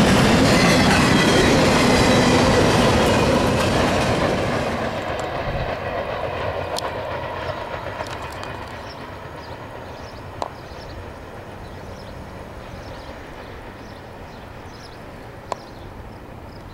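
Freight train's covered hopper cars rolling past on the rails, loud with a few steady ringing tones from the wheels, then fading away over about five seconds to faint background with a couple of brief clicks.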